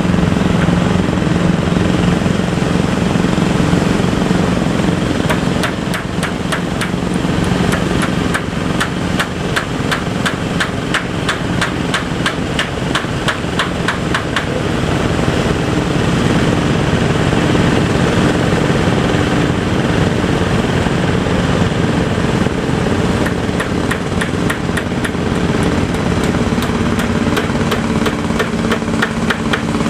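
Boat engine running steadily, with a rapid, even knocking clatter that comes in a few seconds in, fades around the middle, and returns in the last few seconds, when the engine note also rises a little.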